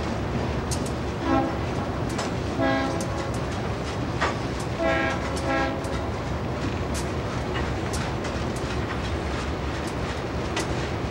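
Freight cars rolling past with a steady wheel rumble and sharp clicks of wheels over rail joints. Four short train-horn blasts sound in the first six seconds, the last two close together.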